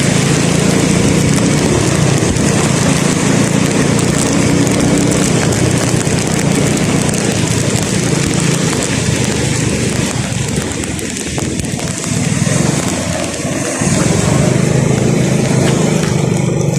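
Vehicle engine running under way with heavy road and wind hiss, dropping off for a few seconds about two-thirds through and then picking up again.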